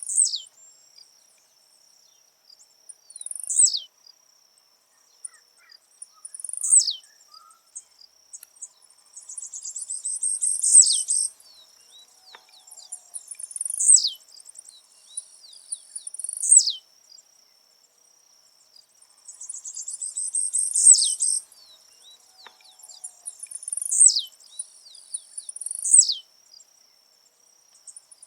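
Blue-black grassquit (tiziu) singing its short, high, buzzy song over and over, roughly every three seconds. Each song ends in a sharp downward sweep, and twice the song stretches into a longer buzzy run. A steady high-pitched insect drone runs underneath.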